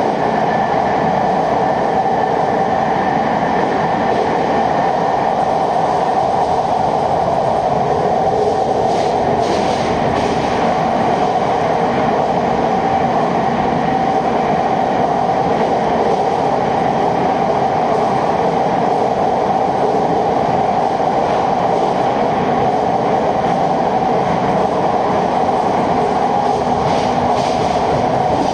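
Japanese electric local train running at steady speed through a tunnel, heard from inside the carriage: a loud, even rumble and drone of wheels and motors, with a few faint clicks from the track.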